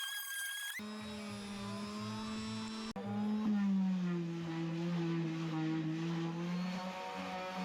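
Electric power sander motor running with a steady hum; about three seconds in it cuts briefly, then runs on with its pitch dipping slightly.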